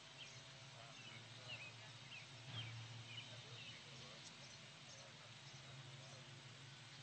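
Faint outdoor quiet with small birds chirping in short, repeated calls over a steady low hum.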